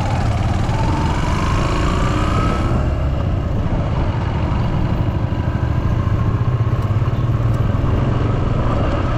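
Vehicle driving on a road: a steady low engine rumble with a whine that rises over the first two or three seconds as it speeds up. A hiss of road noise drops away about three seconds in.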